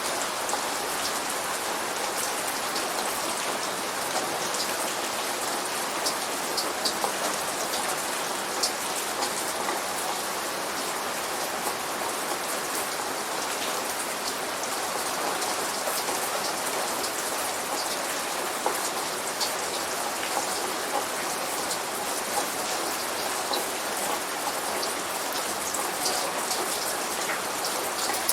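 Light rain falling steadily, an even hiss with scattered sharp drop ticks on a hard surface; no thunder.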